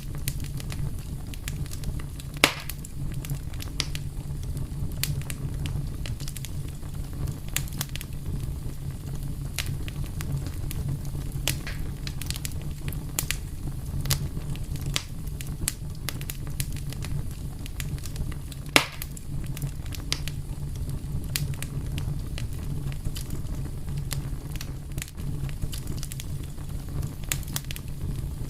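Wood fire crackling: a steady low rumble of flames with frequent sharp snaps and pops, two louder pops a few seconds in and about two-thirds of the way through.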